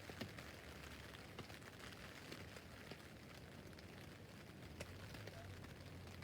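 Rain falling on a tent roof: a faint, steady hiss with individual drops ticking on the fabric at irregular moments.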